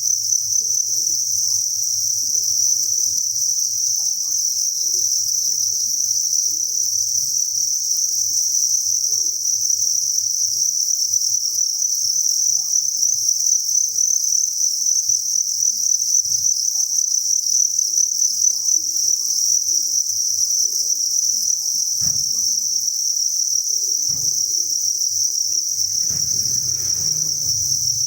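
Dense chorus of many crickets chirping together, a steady high-pitched shrill without gaps. A faint rustle and a couple of soft knocks sound near the end.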